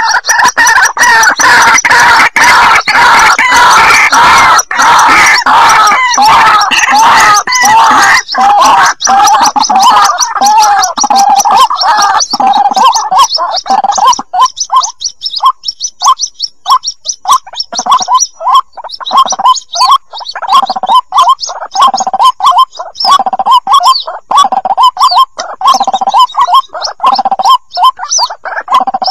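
White-breasted waterhen chicks calling: a dense, loud jumble of overlapping chirping calls. About halfway through it thins to a steadier series of short, repeated calls.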